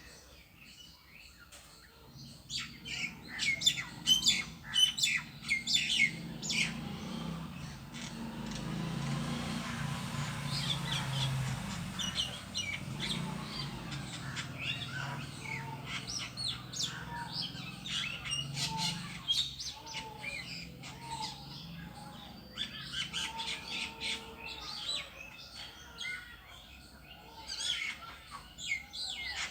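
A bird chirping over and over in quick, short, high calls, with a break in the calling partway through. A steady low hum runs underneath.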